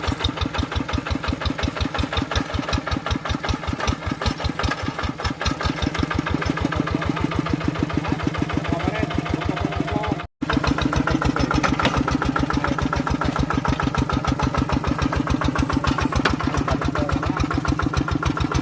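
Tractor engine running with an even, rapid chugging, about five or six beats a second. The sound cuts out for an instant about ten seconds in, then carries on the same.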